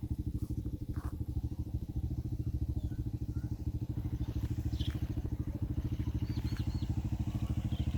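Massey Ferguson 375 tractor's diesel engine running at a steady speed, a rhythmic low pulsing throb.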